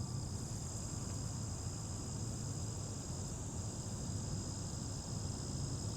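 Steady, continuous chirring of insects, a high even buzz, over a low steady rumble.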